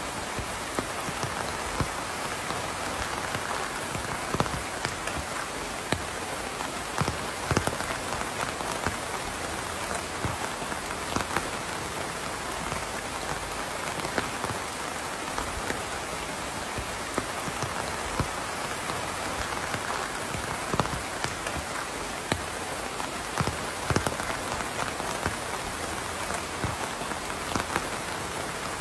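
Steady rain falling on a surface, an even hiss with many distinct drops striking close by at irregular moments.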